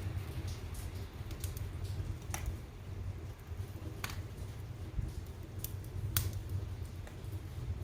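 Wood fire burning in a fireplace: a steady low rumble of flame with occasional sharp crackles and pops, four of them standing out.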